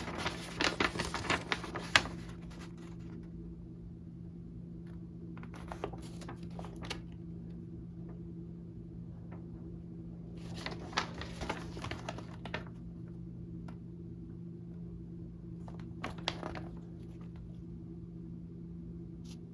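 Handling noises: bursts of rustling and light clicks near the start and again a few times, typical of paper instruction sheets and packing being handled, over a steady low electrical hum.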